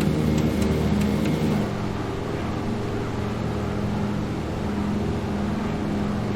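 Douglas DC-3's twin radial piston engines droning steadily, easing to a lower, quieter note about a second and a half in, with a few light clicks before the change.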